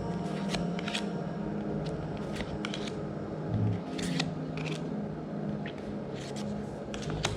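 Magic: The Gathering trading cards being handled and flipped through by hand: a string of light, irregular clicks and snaps of card edges, with soft rustling.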